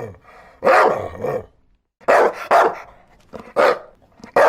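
Dog barking repeatedly: about six sharp barks in short runs, with a brief silent gap about two seconds in.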